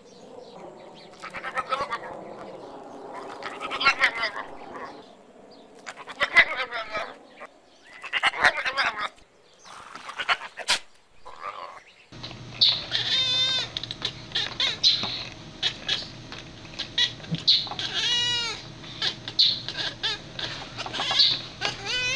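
Animal cries from two different clips. The first part holds irregular, broken calls with clicks. From about twelve seconds in, over a low hum, comes a run of repeated high calls that swoop up and then fall in pitch.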